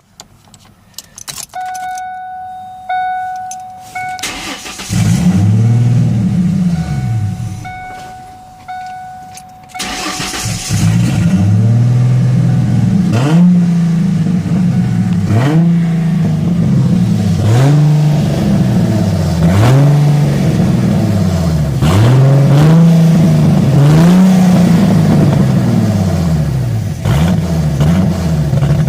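A door or key warning chime in a 1998 Ford Mustang, then its 3.8 L V6 starts, fades out and is restarted about ten seconds in. After the restart the engine idles with its speed rising and falling about every two seconds: a rough, hunting idle after a split-port intake swap.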